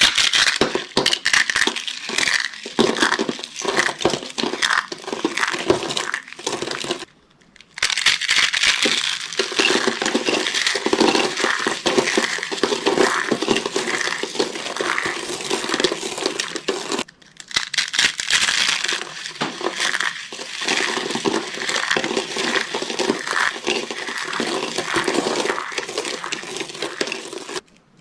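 Dry soap being crushed, a dense run of crunching and crackling that breaks off briefly about seven seconds in and again about seventeen seconds in.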